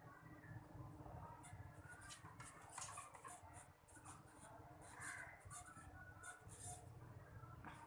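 Near silence with faint, scattered clicks and rustles.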